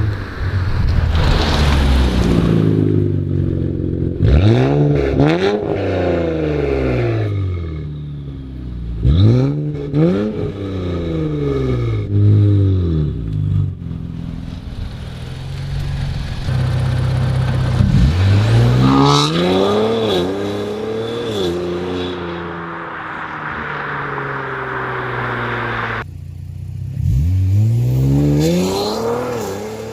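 Infiniti 3.0t twin-turbo V6 through an AAM 3-inch valved catback exhaust with catted downpipes, accelerating hard past in repeated pulls. The revs climb steeply and drop back about four times.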